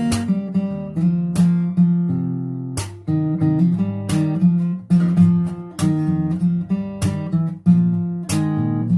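Solo acoustic guitar playing a melody over chords, with sharp accents about every second and a half.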